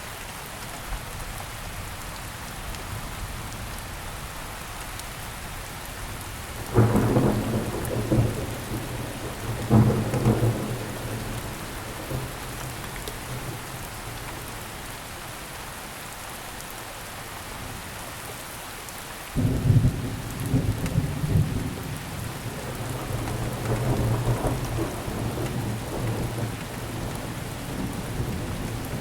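Steady rainfall hissing, broken by rolls of thunder. Two sudden low rumbles come about seven and ten seconds in. A longer roll starts suddenly about two-thirds of the way through and keeps rumbling to the end.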